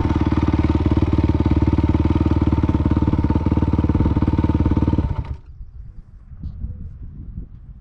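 Dirt bike engine running steadily at idle, then shutting off abruptly about five seconds in, leaving only faint low rumbling.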